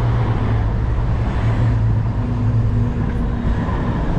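City street traffic heard from a moving bicycle: a low, steady motor-vehicle engine hum that fades in and out over a rush of air and road noise.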